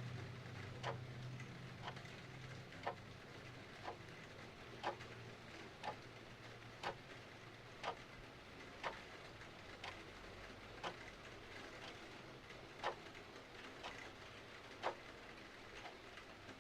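Mechanical clock ticking steadily about once a second, every other tick louder, over a soft steady hiss of rain.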